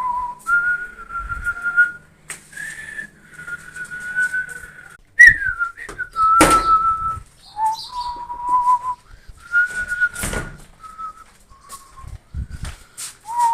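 A person whistling a slow tune of long held notes with small slides between them. A few short knocks or rustles break in, the loudest about five seconds in.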